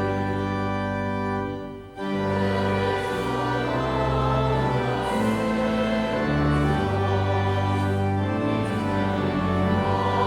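Church music: organ chords with choir singing, held notes changing every second or two over a low bass line. About two seconds in there is a short break between phrases.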